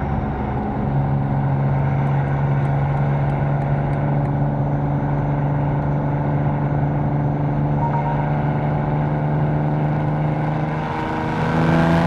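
Catless BMW M4's twin-turbo inline-six droning at steady, constant revs while cruising, then picking up revs and getting louder near the end.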